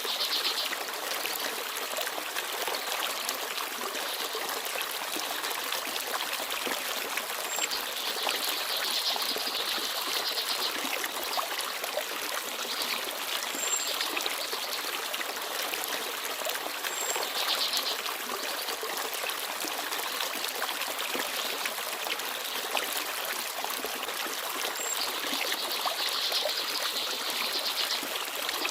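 Forest stream babbling and trickling steadily over stones. Small birds give a few short, high-pitched chirps above the water.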